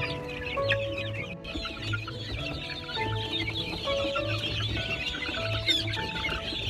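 Many chickens clucking over background music that has held notes and a steady bass beat.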